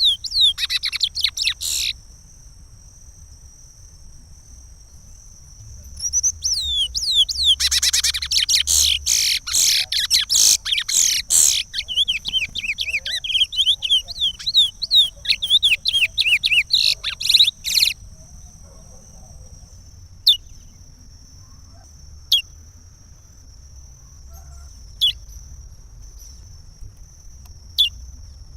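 Curió (chestnut-bellied seed finch) singing the Pará regional song: a phrase ending about two seconds in, then after a pause a long run of fast whistled notes lasting about twelve seconds, followed by four single sharp notes a couple of seconds apart.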